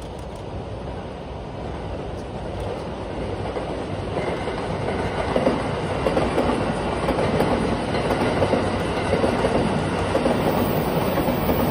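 Two trains passing side by side: an E657 series limited express and the Doctor Yellow Shinkansen electric and track inspection train. Their running noise grows louder from about four seconds in and stays loud as they come by.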